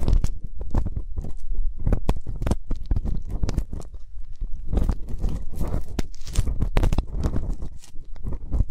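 Ear-cleaning ASMR sounds: an ear pick scraping and rubbing close at a microphone's ear, a dense, uneven run of crackling scratches over soft low thumps.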